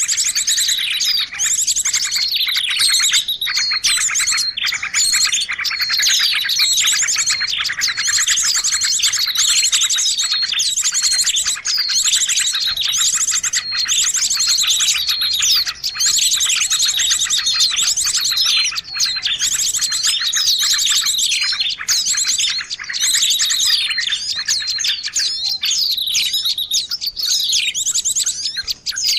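A dense, noisy chorus of many small birds chirping and trilling rapidly and without pause, the overlapping calls of a bird-lure (pikat) recording meant to draw in birds of all kinds.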